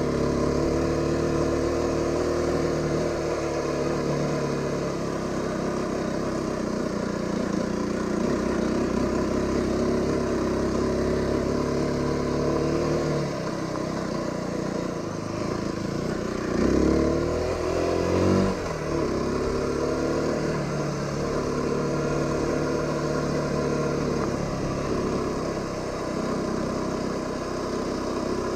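Aprilia RX125 single-cylinder 125 cc motorcycle engine running while being ridden, mostly at fairly steady revs, then revving up and down quickly twice about two-thirds of the way through, the loudest part.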